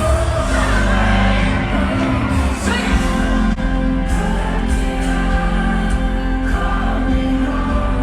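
Live pop concert music played through a venue sound system: a band holding a sustained bass and chords, with singing over it.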